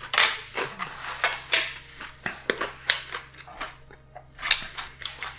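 Chewing a crunchy panko-breaded deep-fried pork cutlet: a string of crisp crunches, with a fork clinking and scraping on a plate.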